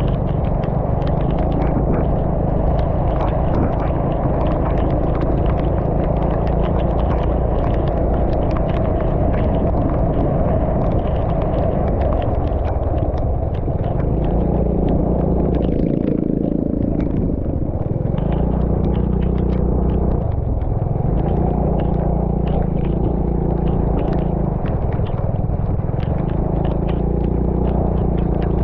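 A motor vehicle's engine running steadily while travelling, its pitch dropping and rising a few times as the speed changes, over a dense patter of rain.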